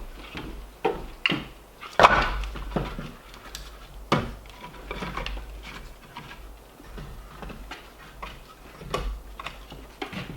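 Irregular wooden knocks and thumps from timber being worked or handled, the loudest about two seconds and four seconds in.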